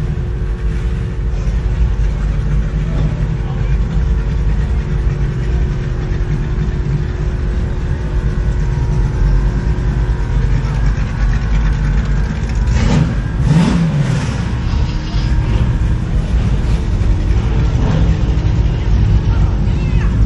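Car engine running with a steady low rumble, with a short rev about two-thirds of the way through.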